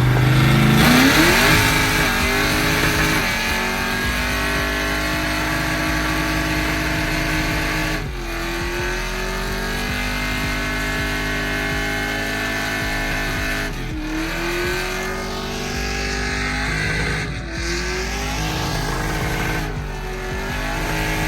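A car engine held at high revs through a loud exhaust. The revs drop and climb back up several times.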